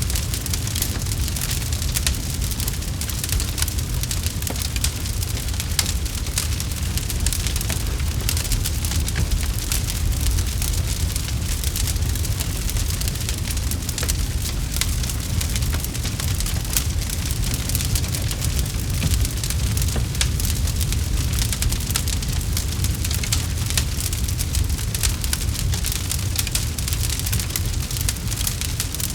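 Campfire crackling: a dense, steady stream of small sharp pops and snaps over a low, constant rumble of burning.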